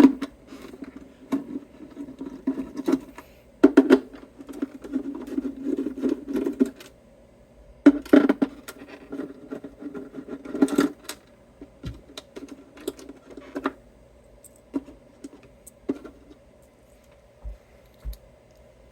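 Scattered clicks, taps and scraping of hand tools against small metal guitar hardware and screws being worked loose, in uneven bouts that ease off after about fourteen seconds.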